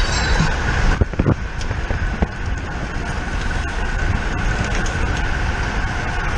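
Wind rushing over a bike-mounted camera's microphone at racing speed, with a thin steady whine and a few sharp clicks about a second and two seconds in.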